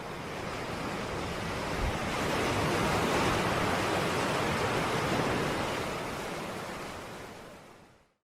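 A steady rushing noise like surf or wind that swells up, then fades away to silence near the end.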